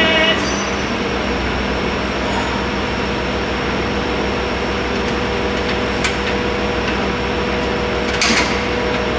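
JR Hokkaido H-100 DECMO diesel-electric railcar standing with its engine idling: a steady hum with a fast low throb, a few light clicks and a sharp knock about eight seconds in.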